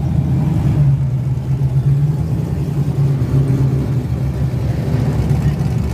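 Truck engine running at a steady, even low pitch, without revving up or down.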